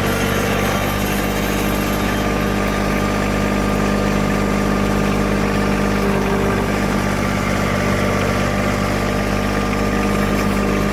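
John Deere 1023 compact tractor's three-cylinder diesel engine running steadily at an even speed.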